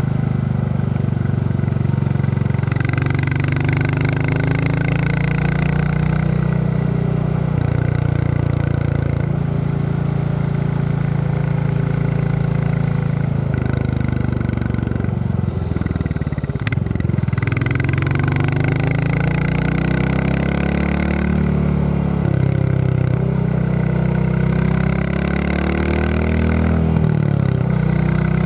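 Royal Enfield Classic 350's single-cylinder engine thumping as the motorcycle is ridden, its note rising and falling with the throttle. The note drops and wavers about halfway through, then climbs again.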